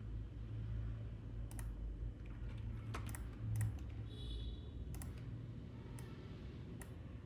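Scattered clicks of a computer mouse and keyboard, single sharp clicks spaced irregularly, over a steady low hum.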